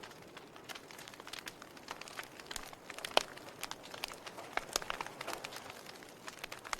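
Log fire crackling: irregular sharp pops and snaps from burning wood over a soft steady hiss, with one louder pop about three seconds in.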